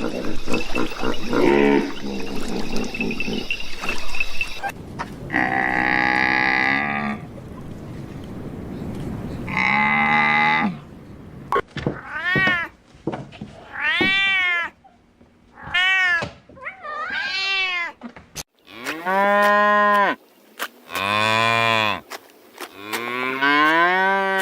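Domestic cats meowing over and over, about eight short calls that rise and fall in pitch across the second half. Before them come two long, steady calls from another farm animal, after a noisy start.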